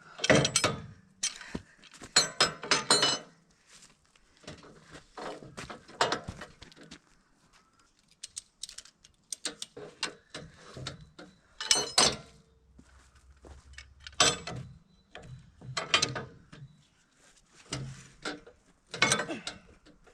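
Ratcheting crane hoist worked by hand in about seven short bursts of rapid clicking, with pauses between, as it lifts a heavy log.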